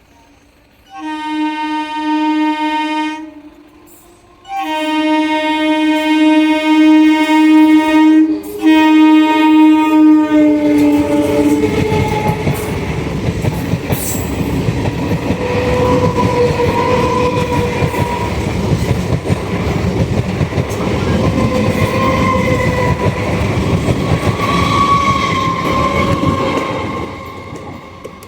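Indian Railways train horn sounding three blasts, the second long, the last sliding down in pitch as the train reaches the camera. The train then passes close by with a loud rumble and wheel clatter that fades near the end.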